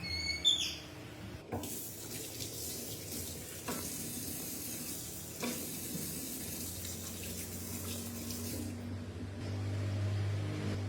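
Water running from a tap into a sink for about seven seconds, then shut off. A steady low hum comes in near the end.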